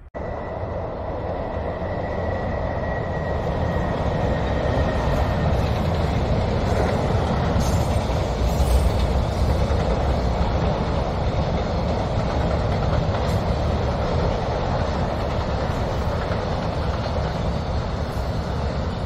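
Container freight train crossing a steel railway bridge: the wagons make a loud, steady rumble and rattle, with a few clatters around the middle. A thin steady high whine fades away over the first few seconds.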